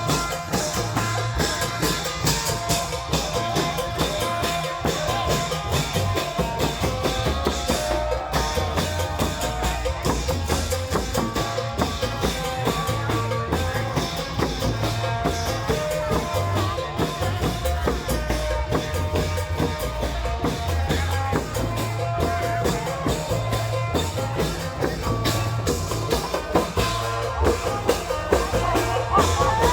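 Isan klong yao long-drum band playing: steady, dense low drum beats with percussion and a sustained melody over them.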